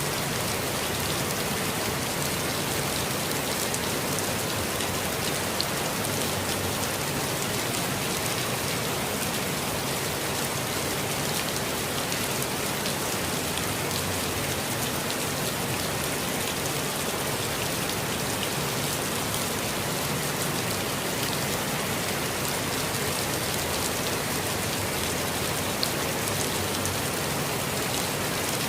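Steady rain falling on foliage, an even hiss with scattered small drop ticks.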